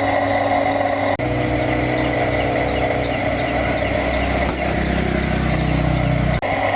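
An engine running steadily with a low hum. Its tone changes abruptly about a second in and again near the end, where the sound cuts.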